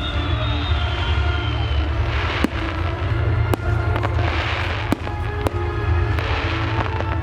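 Fireworks display: about five sharp bangs spread over the seconds, with three bursts of crackling, over film-score music playing on a public sound system.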